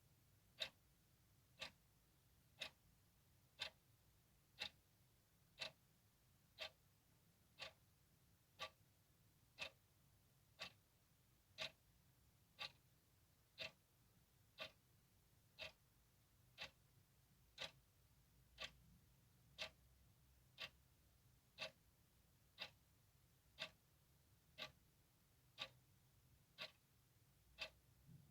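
Clock ticking steadily, one sharp click a second.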